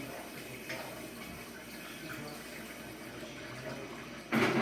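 Kitchen tap running steadily into a sink or pan, with a sudden louder rush of noise near the end.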